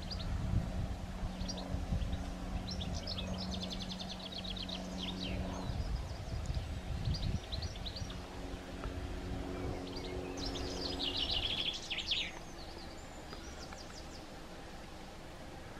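Small birds chirping, with two rapid trills, one about three seconds in and a louder one about eleven seconds in. Under them runs a low steady hum that stops about twelve seconds in.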